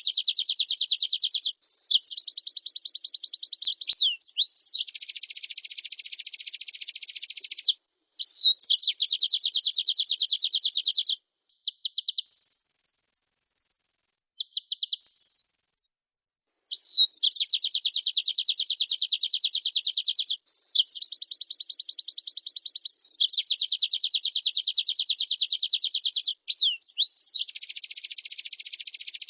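White-eye (pleci) singing long, rapid trilling phrases of closely repeated high notes, each lasting two to three seconds with short pauses between. Around the middle comes a shorter, even higher buzzy phrase in two parts.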